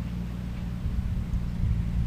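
Skid steer with a shredder head running steadily, a low engine hum, with heavier low rumbling swelling in from about a second in.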